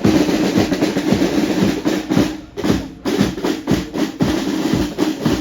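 A parade marching band's drums playing snare rolls and bass drum beats, with two brief drop-outs a little over halfway through.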